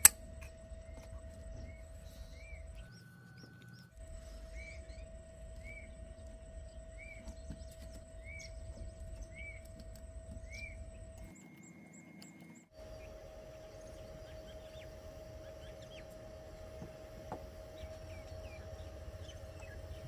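Small electric motor running steadily with a constant whine and a low rumble, with a faint chirp about once a second, in several short clips cut together.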